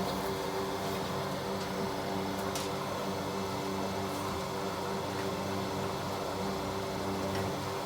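A steady machine hum from a running motor, even and unchanging, with a few faint clicks.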